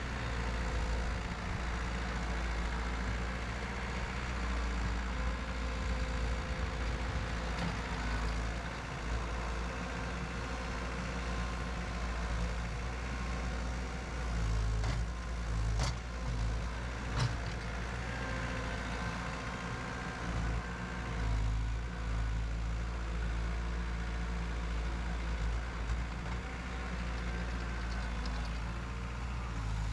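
An engine running steadily with a low rumble, with two sharp clicks about halfway through.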